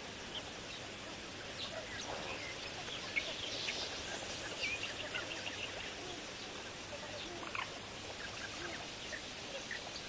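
Scattered short, high bird calls and chirps over a steady background hiss, busiest a few seconds in.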